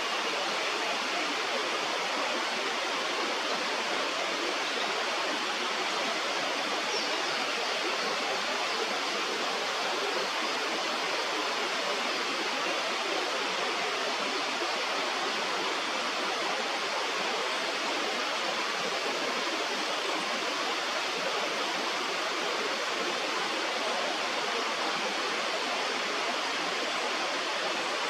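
Steady rushing of a fast-flowing river or stream, an even hiss without breaks.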